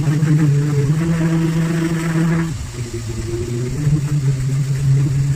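Electric grinder-sander running with a steady motor hum while it sands paint off the boat's fibreglass hull. The gritty sanding noise eases about two and a half seconds in as the motor keeps running.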